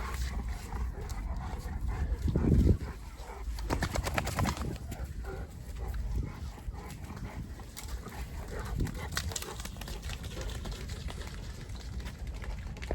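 Boerboel dog sounds over steady wind rumbling on the microphone, with a loud low burst about two and a half seconds in.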